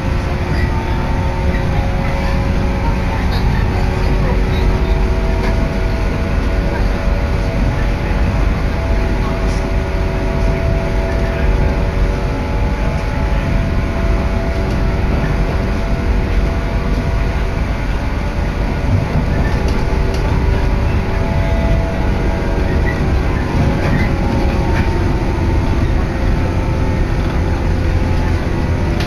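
Electric train running at speed, heard from inside the passenger car: a steady, loud rumble of the wheels on the track, with a few faint steady tones over it.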